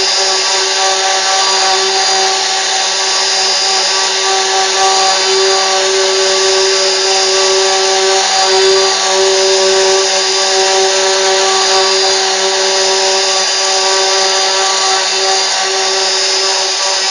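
CNC router spindle running steadily: a constant whine over a loud hiss.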